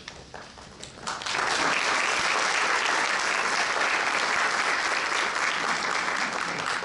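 Audience applauding: a few scattered claps at first, then full, steady applause from about a second in, dying away near the end.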